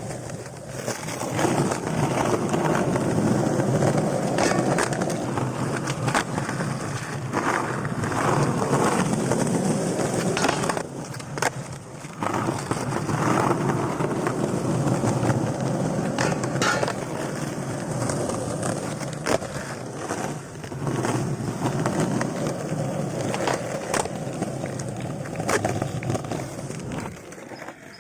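Skateboard wheels rolling over pavement, with sharp clacks from the board's tail and landings now and then. The rolling drops away briefly about eleven seconds in, then picks up again and fades near the end.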